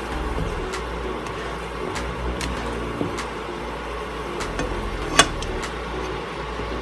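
Minced garlic sizzling in melted butter in a nonstick pan, with a spatula scraping the pan and a few light taps, the sharpest about five seconds in, over a steady low hum.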